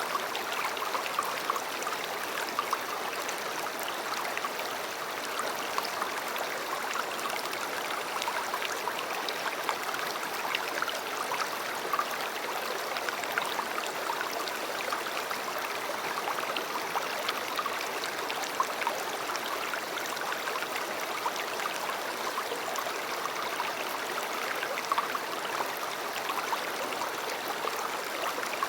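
River water flowing and babbling steadily, with many small splashes and trickles.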